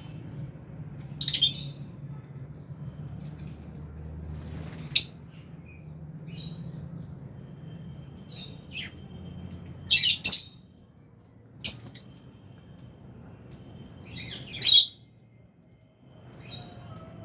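Albino and Fisher's lovebirds giving short, shrill chirps and squawks every second or two, the loudest in the second half, over a steady low hum.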